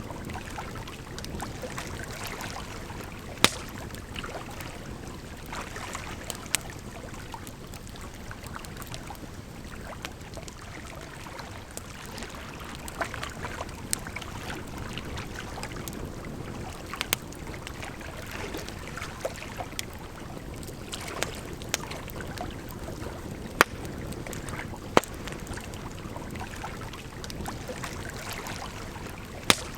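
Campfire crackling, with sharp pops at irregular intervals, over a steady rush of flowing water.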